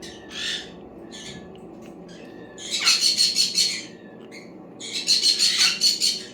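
Pet parrot giving two loud, harsh, raspy squawks, each about a second long, the first a little under three seconds in and the second near the end.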